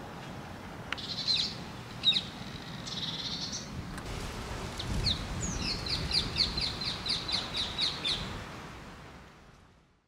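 Songbirds calling outdoors: a few short chirps, then a quick run of repeated notes, about four a second, for about three seconds. The sound fades out at the very end.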